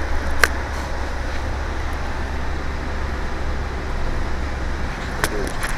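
A vehicle engine running steadily, heard from inside the cab as a constant low hum, with a couple of sharp clicks.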